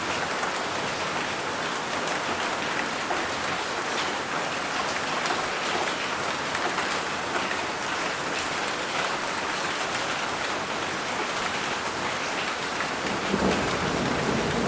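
Steady rain falling in a dense, even patter, with a low rumble of thunder building near the end.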